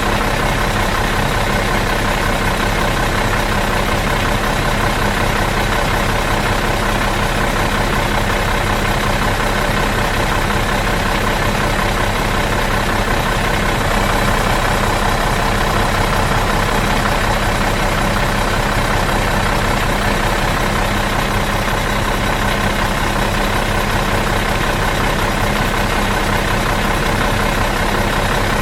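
Bus engine idling steadily out of gear, an even drone that holds unchanged.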